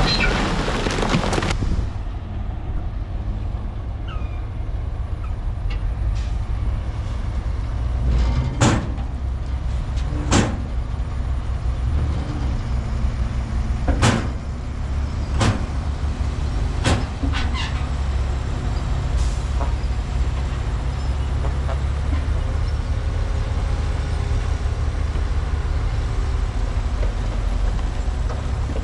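Heavy earthmoving machine's diesel engine running steadily, with a rushing noise in the first second or so and about six sharp metallic clanks spread through the middle.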